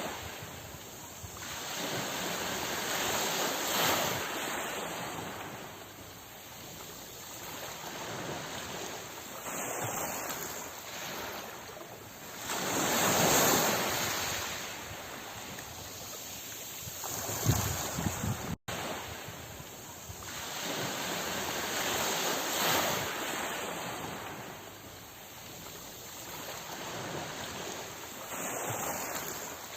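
Sea waves breaking and washing in, the surf swelling and fading every few seconds, one wave louder than the rest a little before halfway. The sound cuts out for an instant about two-thirds of the way through.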